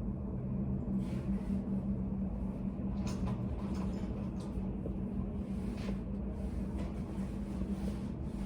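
Study cafe room tone: a steady low hum with a few faint, soft clicks scattered through it.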